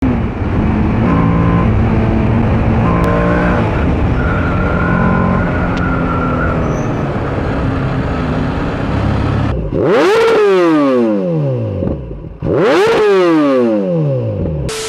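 A Kawasaki ZX-10R superbike's engine at high revs: after a steady, dense running sound, the engine note twice climbs sharply and falls away over about two seconds, loud.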